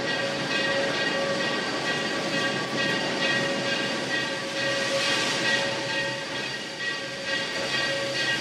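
A train running, with a steady hiss and several steady high tones held over it.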